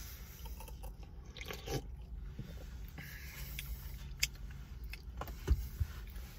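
A person chewing a mouthful of a burger on a pretzel bun, with scattered small wet mouth clicks and smacks.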